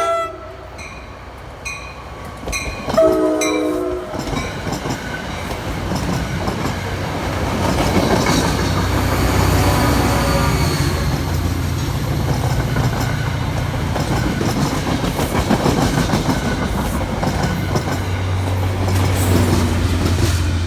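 A train passing at trackside. A short horn blast comes about three seconds in, then the locomotive's engine rumble and the cars roll by with a steady rushing noise that builds and holds.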